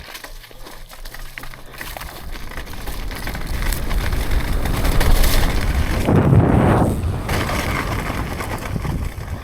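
Wind rushing over the rider's microphone and mountain-bike tyres rolling on dirt during a run at a dirt jump, growing louder as the bike picks up speed, with a loudest surge of noise about six seconds in before it settles.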